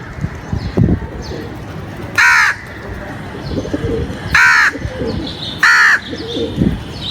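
A crow cawing three times, short harsh calls about two seconds apart, over a low background of other bird sounds.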